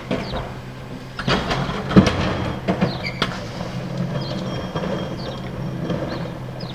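Garbage truck's diesel engine running steadily, with a series of metal clanks and bangs; the loudest comes about two seconds in.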